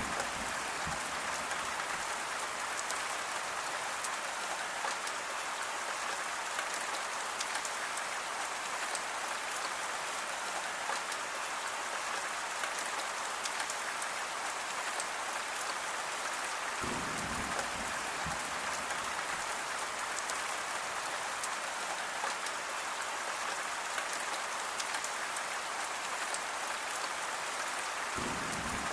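Steady rain falling on a surface, a dense even hiss of drops with fine individual drop ticks, and a brief low rumble about two-thirds of the way through and again near the end.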